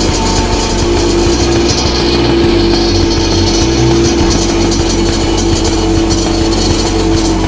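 Tuned Suzuki TS 125 two-stroke single-cylinder engine running steadily, mixed with rock music.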